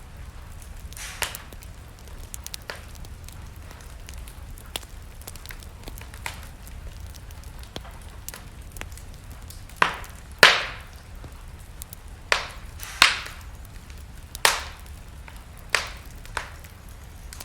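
Wood fire burning in a fireplace, crackling with scattered sharp pops over a low steady rumble; the loudest pops come in a cluster in the second half.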